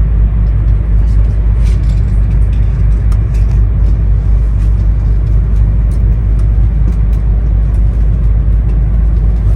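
E2-series 1000 Shinkansen train running at speed, heard inside the passenger car: a steady, loud low rumble with faint ticks now and then.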